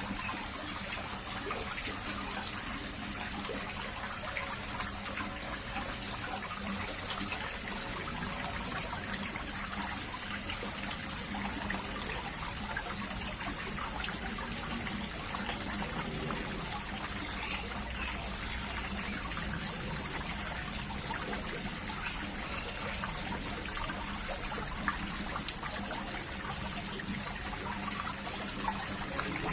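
Steady running water trickling and pouring.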